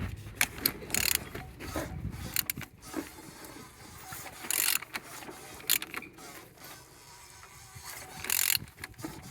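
A car engine being turned over by hand: irregular mechanical clicks, knocks and scraping, with a few short louder noises. The engine turns freely and holds compression.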